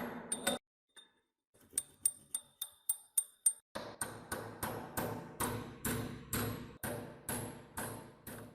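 Hand work on metal parts: a quick run of small ringing metallic clicks, about four a second, then a steady rhythm of heavier strokes about two a second from roughly four seconds in.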